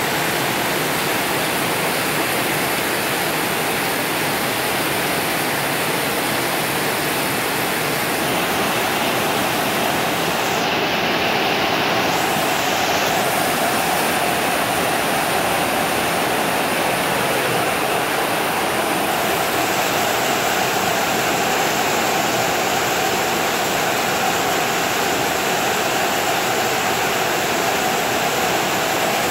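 Heavy rain falling steadily: a dense, even hiss of a downpour that holds at the same level throughout.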